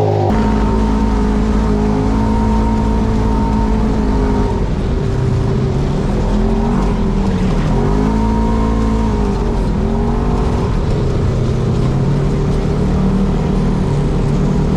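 Side-by-side UTV engine running under way, its pitch rising and falling repeatedly as the throttle opens and closes, over a steady low rumble.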